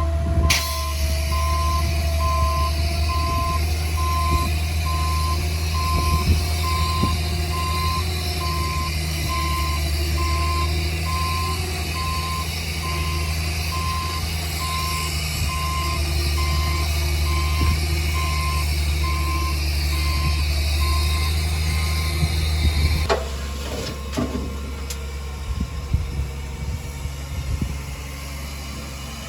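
A heavy earthmoving vehicle's reversing alarm beeping at an even pace over its steady diesel engine. The beeping and the engine's deep drone stop about 23 seconds in. A quieter engine with a few knocks and clanks follows.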